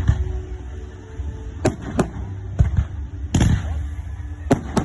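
Fireworks going off: about six sharp bangs at irregular gaps over a low, steady rumble.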